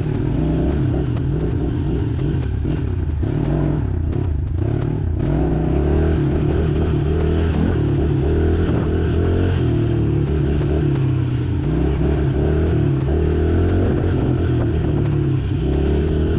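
Honda 110 dirt bike's single-cylinder four-stroke engine running steadily, its pitch wavering a little with the throttle.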